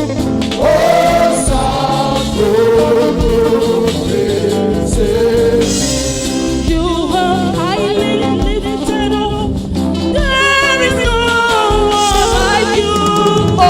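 Gospel praise music: a singing group with a backing band keeping a steady beat.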